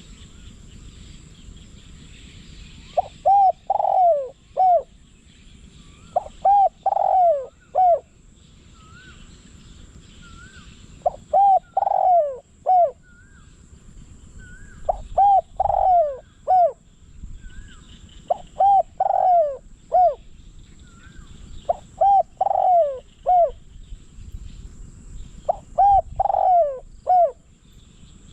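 Caged decoy spotted dove cooing its short phrase of three or four notes, repeated seven times about every three and a half seconds. Faint chirps from other small birds can be heard between the phrases.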